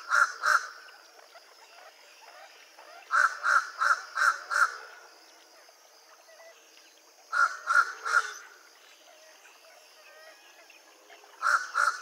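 Fish crow giving short nasal "car" or "ca" calls. They come in quick bouts of three to five, with pauses of a few seconds between bouts.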